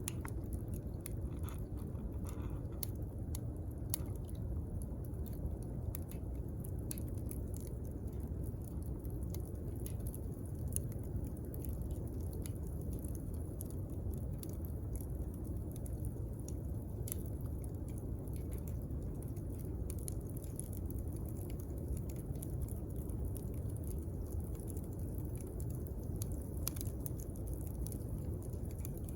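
Wood bonfire crackling: a steady low rush of burning with scattered sharp pops and snaps all through.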